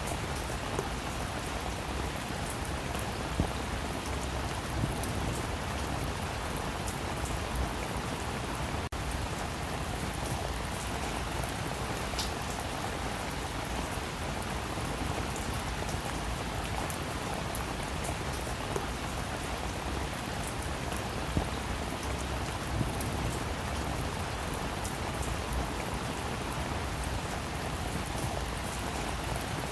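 Steady rain falling, with scattered individual drops striking a surface.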